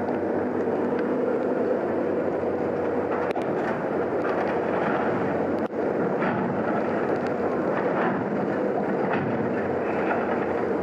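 Heavy rain drumming steadily, with a low engine hum running under it and scattered sharp ticks of drops or debris.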